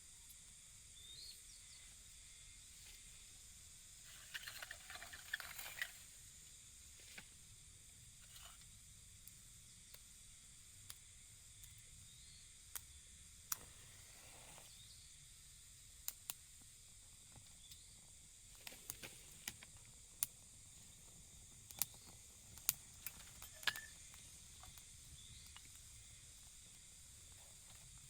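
Faint steady high-pitched hiss with scattered light clicks and knocks, a short cluster of them a few seconds in and several single sharp ticks later on.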